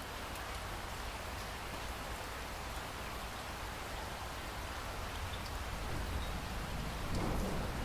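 Steady rain falling, with scattered drop ticks. A low rumble of thunder starts to build near the end.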